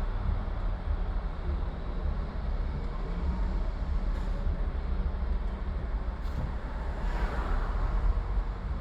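Steady low road rumble of a car driving through city traffic, swelling briefly about seven seconds in as if another vehicle passes close by.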